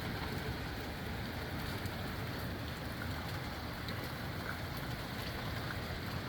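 Steady rain and strong wind blowing together, with a few scattered drops ticking close by.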